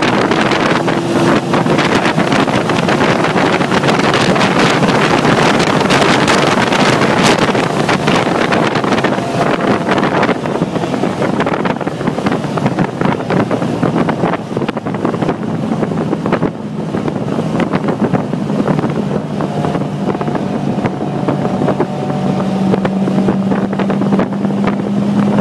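Car engine running at speed on a racetrack, with heavy wind rushing over the microphone. The engine note climbs slowly in pitch over the last several seconds.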